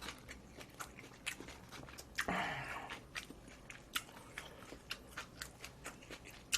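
Close-up sounds of a person chewing and biting food, with many short crunchy clicks and one louder rush of noise about two seconds in.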